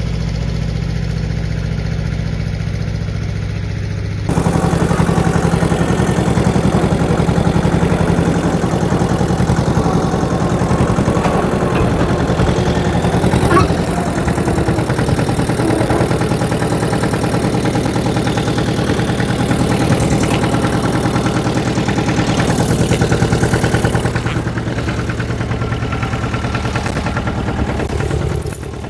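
An engine running steadily at a low, even speed, getting louder about four seconds in and staying so.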